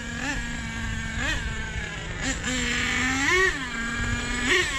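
Nitro RC monster truck's glow engine idling with about five short throttle blips, roughly one a second, each a quick rise and fall in pitch. The idle runs a little high because the low-end needle has just been leaned out.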